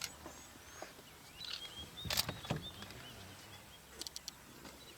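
Birds calling outdoors with short, repeated chirps. A sharp click about two seconds in and a quick run of clicks near the end.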